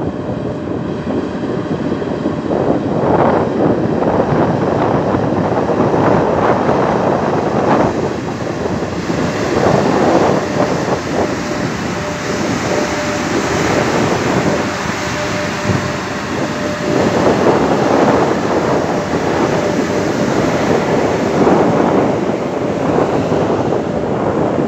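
Electric freight train passing close by: the locomotive goes past, then open wagons roll by with a steady clattering of wheels on the rails. Wind buffets the microphone throughout.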